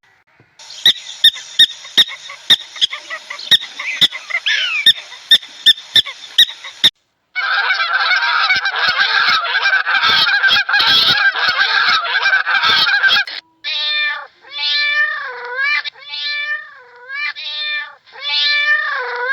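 A flock of geese honking together, then a goose giving about six separate honks in a row, each rising and falling in pitch. Before them is a run of sharp clicks, about two or three a second, over a faint hiss.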